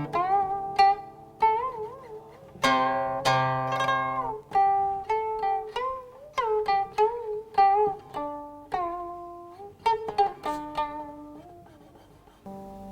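Guqin (seven-string Chinese zither) played solo: a slow run of single plucked notes, many sliding or wavering in pitch after the pluck, with a few louder, fuller notes about three seconds in.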